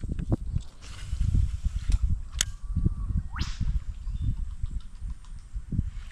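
Handling noise from an angler fighting a big Australian bass hooked on a surface lure: irregular low bumping and rumbling, scattered clicks, a sharp click about two and a half seconds in, and a short rising whirr about three seconds in.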